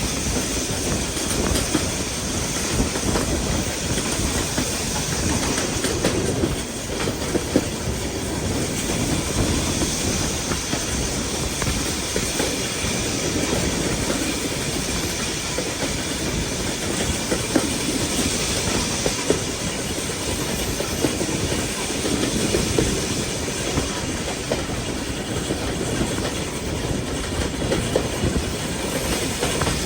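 Railway train running along the track, with a steady rumble and the clickety-clack of wheels over rail joints.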